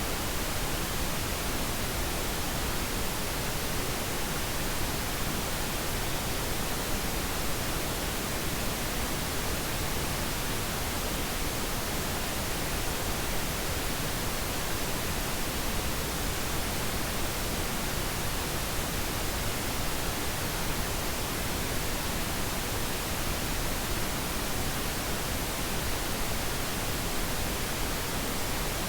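Pink noise: a steady, even hiss spread across all pitches, with no changes.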